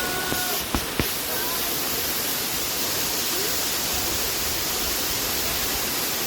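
Waterfall: the steady, even rush of water falling over rocks. Two sharp clicks come about a second in.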